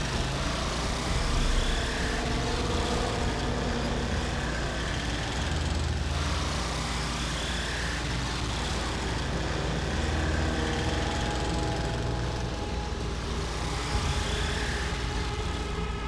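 Motor vehicle engine running steadily as the vehicle drives along.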